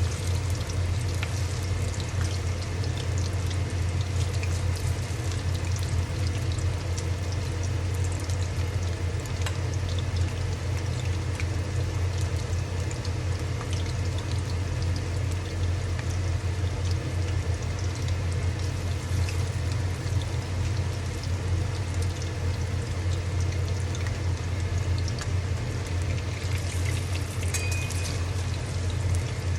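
Fish pakoras deep-frying in hot oil: a steady sizzle with fine crackling, over a constant low hum.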